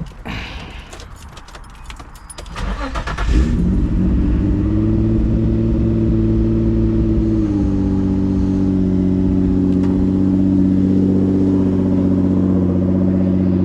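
Twin-turbo 2006 Nissan 350Z's VQ35DE V6 being started: a few clicks, then the starter cranks about three seconds in and the engine catches into a steady high idle, which drops a step about seven seconds in.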